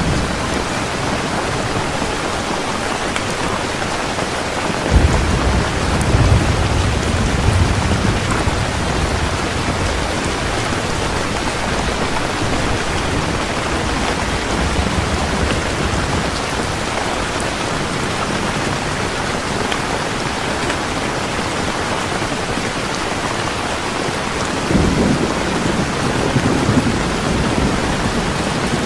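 Heavy rain falling steadily, with rolls of thunder rumbling twice, about five seconds in and again near the end.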